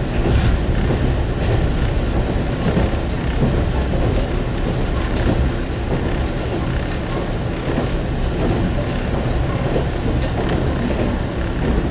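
Inside a single-car diesel railcar under way: a steady low rumble of the engine and wheels on the track, with occasional short clicks and knocks.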